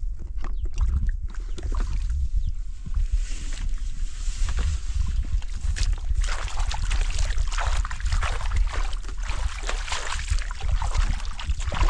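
Water splashing and sloshing as someone works in a stream, growing busier about halfway through. A steady low wind rumble on the microphone runs underneath.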